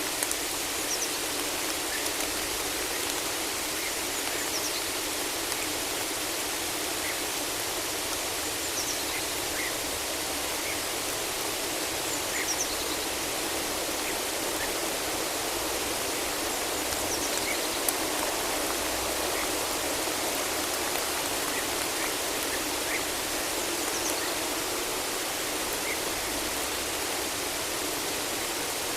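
Steady rain falling in a forest, an even hiss with no breaks, with a few faint, brief high bird chirps scattered through it.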